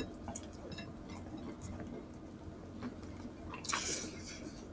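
Close-miked wet chewing and mouth sounds of people eating rice and pork with their bare hands. There are many small wet clicks, and a louder wet smack about three and a half seconds in.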